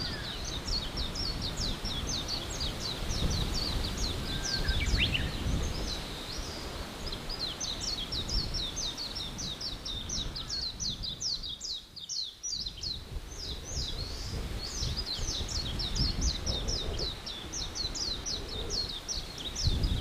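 Forest ambience: a bird calling in long runs of fast, high, repeated chirps, over a steady low rumble. The rumble briefly drops away about midway.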